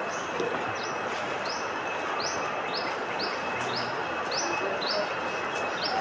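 A bird repeating a short, high chirp about twice a second, over a steady outdoor hiss and a thin, steady high whine.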